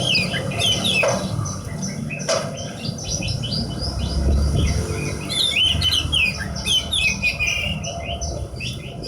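Javan bush lark singing a fast, varied song of chirps and trills in bursts with short pauses, over a low rumble. Two sharp knocks sound about one and two seconds in.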